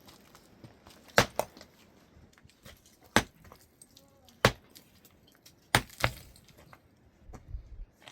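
Sharp, hard blows of a tool striking, about eight at irregular intervals, several coming in quick pairs.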